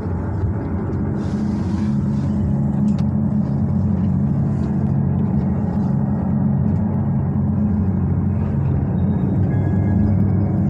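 Small sightseeing boat's engine running steadily, a low hum with a few held tones, heard from inside the hull's underwater observation room.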